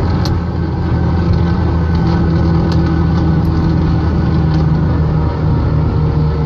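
Car engines running at highway speed, a loud, steady low drone whose pitch hardly changes.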